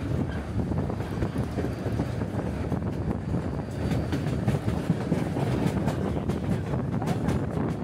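White Pass Scenic Railway passenger train rolling along the track: a steady rumble of wheels on the rails with scattered faint clicks.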